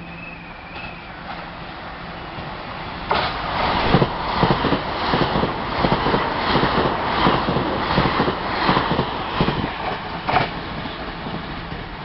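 Taiwan Railways passenger train passing through a station at speed, its wheels clacking rhythmically over rail joints at about two clacks a second for several seconds, then fading as it goes by; no horn is sounded.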